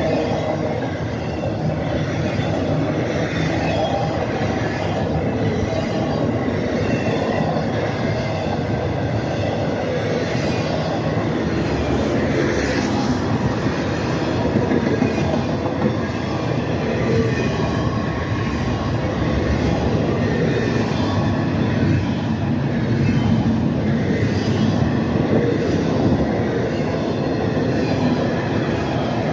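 CSX freight train's cars rolling past in a steady rumble of wheels on rail, with some high steady wheel squeal over it.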